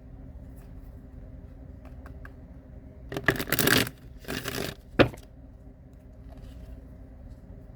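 Tarot cards being shuffled in two short bursts, a little after three seconds and again at about four and a half, then a single sharp tap about five seconds in, over a steady low hum.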